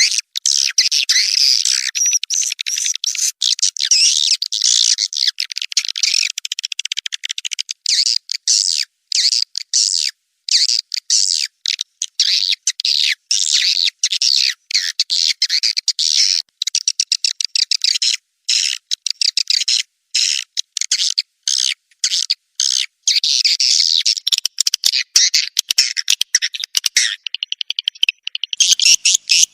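Swiftlet lure recording: dense, rapid swiftlet chirps and twitters, all high-pitched with no low end, cut by frequent short silent gaps. About 24 seconds in, the sound changes as a different stretch of calls takes over.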